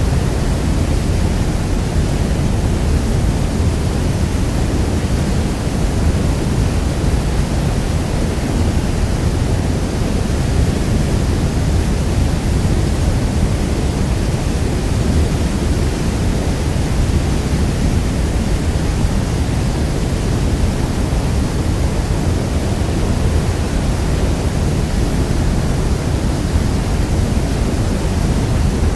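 Niagara Falls: a steady, deep rush of falling water, heavy in the low end, with no change.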